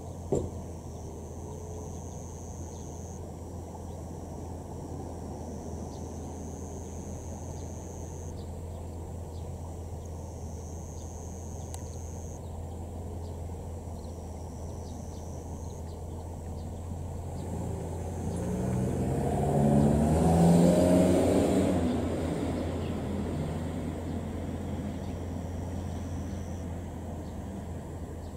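The E001 series Train Suite Shiki-shima passing on the line, its noise building to a peak about twenty seconds in and then fading away. A brief knock just after the start.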